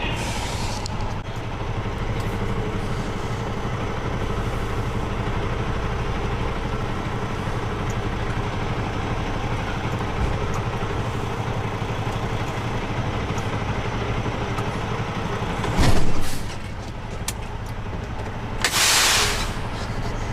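Semi-truck diesel engine running steadily, heard from inside the cab. Near the end come a loud short burst and then, a few seconds later, a sharp hiss of air from the truck's air brake system.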